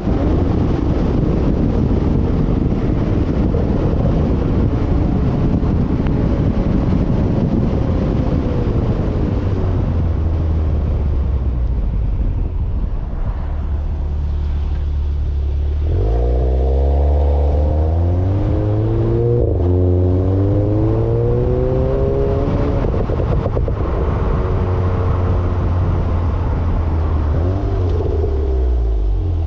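Audi S3's turbocharged 2.0-litre four-cylinder engine, breathing through an Armytrix aftermarket exhaust, in a hard acceleration run. At first wind and road noise cover it. From about halfway its note comes through strongly, rising in pitch and dropping back at each gear change.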